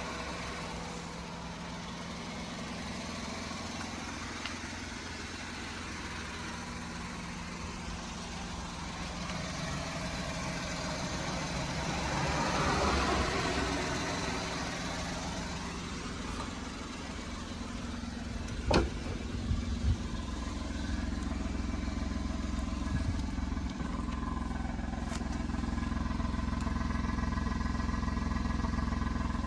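Honda N-One's 660 cc three-cylinder engine idling steadily, swelling briefly in level around the middle. A single sharp click about two-thirds of the way through, followed by a few light knocks.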